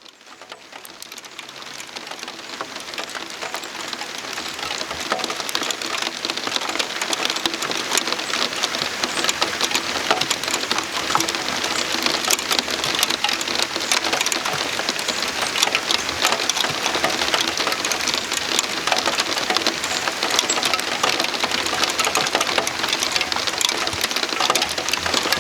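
Heavy rain falling, a dense steady patter of drops hitting a surface, fading in over the first few seconds.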